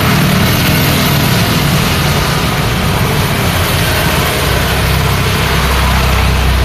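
Steady rain and roadside traffic: a hiss of rain and tyres over the engine of a vehicle running close by, with a deeper engine rumble coming in about four and a half seconds in.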